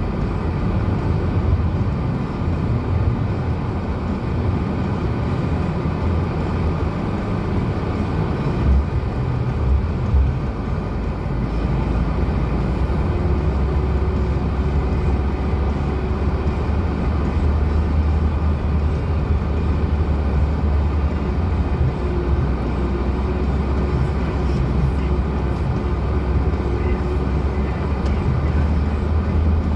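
Lada Granta car driving, its engine and the road making a steady low rumble, with a couple of bumps about nine and ten seconds in. From about thirteen seconds on the rumble becomes smoother and steadier.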